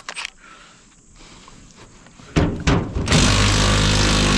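A couple of sharp metallic clicks, then about two and a half seconds in a power tool starts and runs steadily and loudly with a buzzing hammer.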